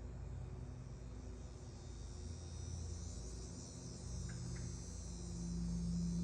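Steady low electrical-sounding hum with a high, thin steady buzz above it, and a faint two-note bird chirp about four seconds in.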